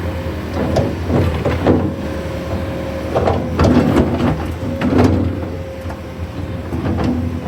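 Bobcat S650 wheeled skid steer working: its diesel engine runs steadily with a steady high tone over it. Several short clanks and knocks come in clusters, about a second in, around three seconds in and about five seconds in.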